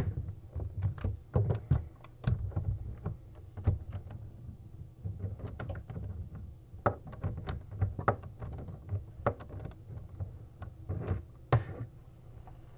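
Irregular knocks, taps and clatter of fittings and tools being handled inside a bathroom vanity cabinet while a faucet's connections are fastened, over a low steady hum.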